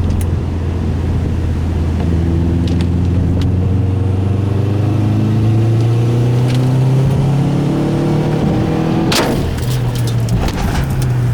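Subaru Impreza flat-four engine pulling hard under acceleration, its pitch climbing slowly. About nine seconds in there is a sharp bang and clatter as the carbon-fibre hood flies up and strikes the windshield and roof, and the engine note drops.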